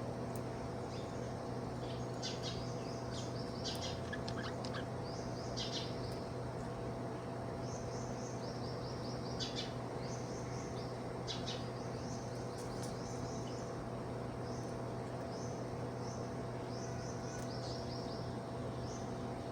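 Budgerigar chirping in short, quick runs of high notes, scattered through with single sharp chirps, over a steady low hum.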